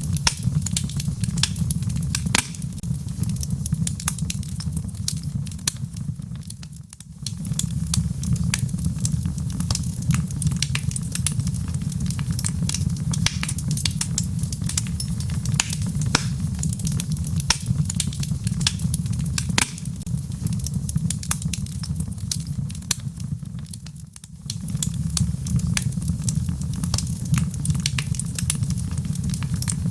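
Wood fire burning in a fireplace: a steady low rumble of flames with frequent sharp crackles and pops from the burning logs. The sound briefly fades and comes back twice, about seven seconds in and again near the end.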